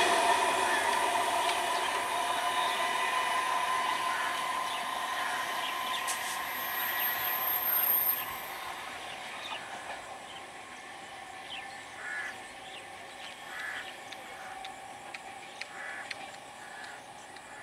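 Electric multiple unit local train running on the tracks, its rumble and steady motor tone fading away over the first eight seconds and then dropping off sharply. After that, faint bird calls repeat a few times over a low background, with scattered small clicks.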